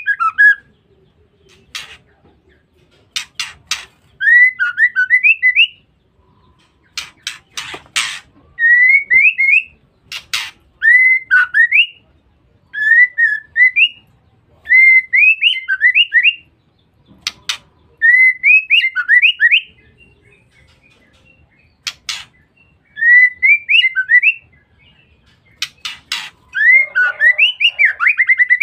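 Female white-rumped shama calling: short whistled phrases of quick rising and falling notes, one every second or two, broken now and then by small groups of sharp clicking notes.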